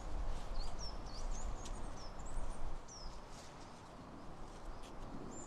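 Small songbirds chirping with short, high, gliding notes, several in the first three seconds and again near the end, over a low steady background rumble.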